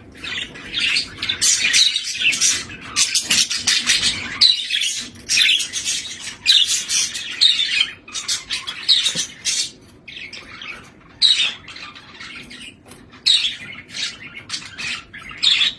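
Budgie chattering in quick, harsh chirps and squawks, nearly continuous for the first half, then in shorter bursts with gaps between them.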